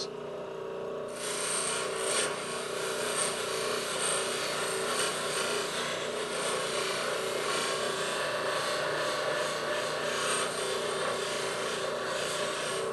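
Machine motor running steadily with the spinning abrasive-mesh deburring wheel; about a second in, a steel part is pressed against the wheel, giving a steady hissing grind as its corners are rounded off, which lasts until just before the end.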